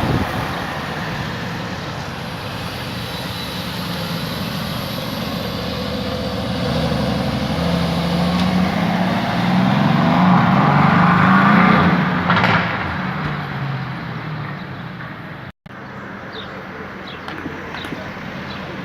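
Mercedes-AMG GT C Roadster's twin-turbo V8 running. It grows louder over several seconds to a peak about twelve seconds in, then fades. After a brief cut near the end it is quieter.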